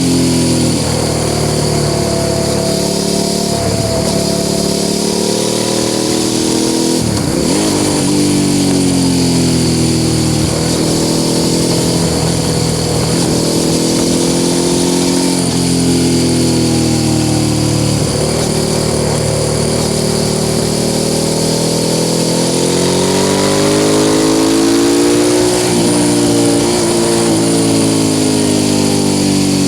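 Suzuki SV650 S's 645 cc V-twin with a Mivv aftermarket exhaust, heard from the rider's seat while riding, its pitch climbing and dropping over and over as the throttle opens and closes and gears change. Wind noise runs underneath.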